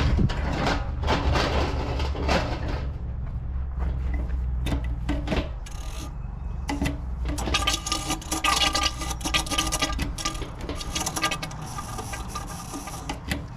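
A hand pump on a barrel of 15W-40 oil being worked, with scraping and rubbing strokes that grow dense and rapid in the second half, over a steady low rumble that fades about ten seconds in.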